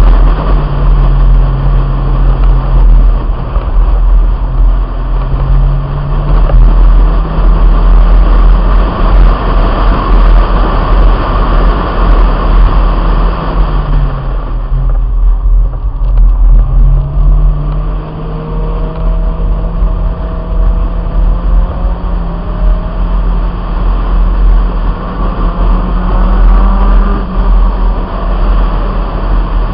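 Honda Integra's four-cylinder engine pulling hard at track speed, with a heavy wind rumble on the roof-mounted microphone. About halfway through the revs drop away as the car slows for a corner, then climb steadily again as it accelerates out.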